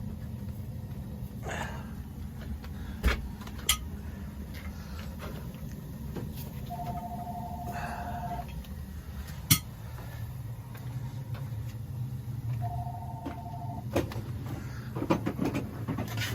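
Newly installed Burnham steam boiler's burner firing at start-up, a steady low hum, with a few sharp clicks and taps. Twice a short two-tone electronic beep sounds, about seven and thirteen seconds in.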